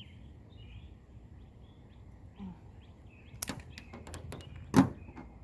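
Sharp clicks and knocks from hands handling something hard, a quick cluster about three and a half seconds in and one louder knock near the end, over faint bird chirps.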